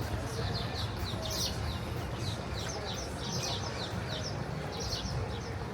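Small birds chirping busily: a quick run of short, high chirps, each falling in pitch, that stops near the end, over a steady low background hum.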